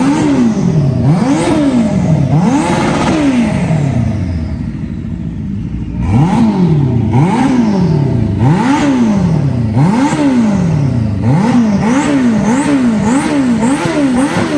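A motorcycle engine being blipped again and again: each time the revs jump up quickly and then fall back. A few slower revs are followed by a short lull, then the blips come faster and faster, about two a second by the end.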